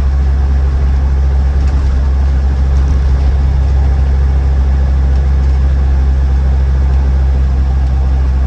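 Inside the cabin of a Land Rover Defender 90 TD5 on the move: its 2.5-litre five-cylinder turbodiesel and the road noise make a steady low drone, relatively quiet for the vehicle thanks to the County's soundproofing and carpets.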